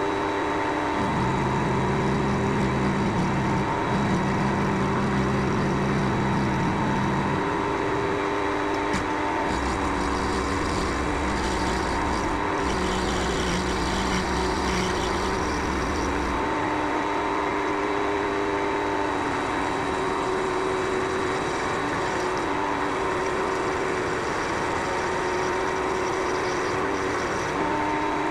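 Benchtop mini lathe running steadily, a motor and drive whine holding even tones while the carbide tool turns down the spinning workpiece; the lower hum shifts now and then as the cut and feed change.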